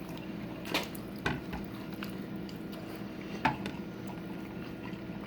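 People chewing hot-sauce chicken wings, with three short wet mouth clicks: one just under a second in, one just after, and one about three and a half seconds in, over a steady low hum.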